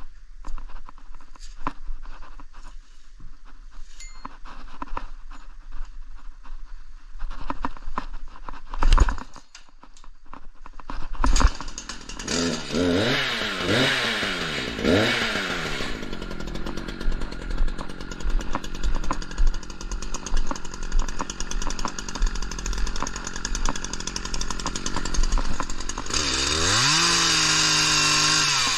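Scattered knocks and clicks, then a two-stroke chainsaw starting up: it is revved up and down several times, runs steadily, and revs high near the end with a brief dip.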